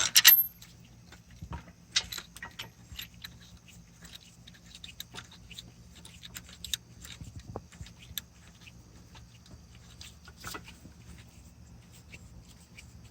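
Scattered light metal clinks and taps from handling parts and tools, with a sharp clatter right at the start and single louder knocks about two seconds and about ten seconds in.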